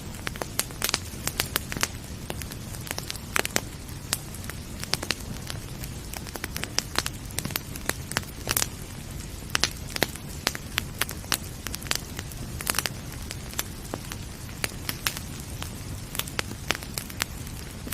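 Wood fire crackling, with many irregular sharp pops, over a steady low rumble and hiss.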